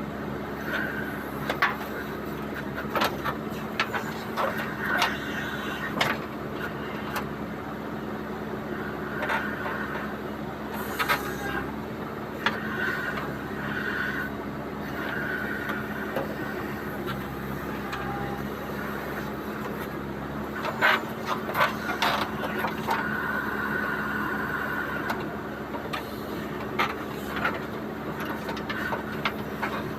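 JCB 3DX backhoe loader's diesel engine running steadily under working load, with sharp metal clanks and knocks at irregular intervals and short high squeals now and then.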